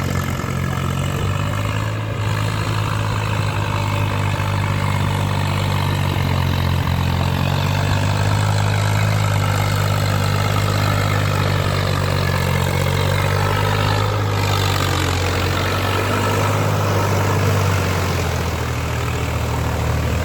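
Agri King AKT 54 tractor's 50 hp Kirloskar diesel engine running steadily, its speed shifting slightly a few times.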